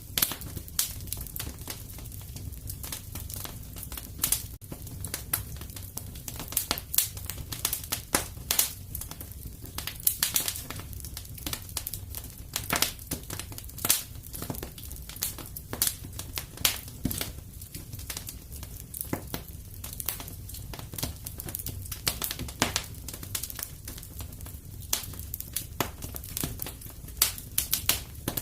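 Wood fire crackling in a fireplace: irregular sharp pops and snaps throughout, over a steady low rumble.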